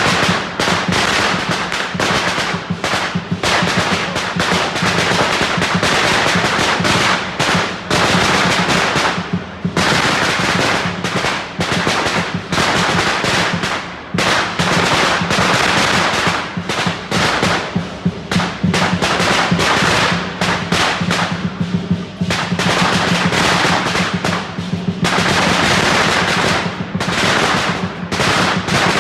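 A long string of Chinese firecrackers going off in a rapid, continuous crackle of loud pops, easing briefly a few times before carrying on.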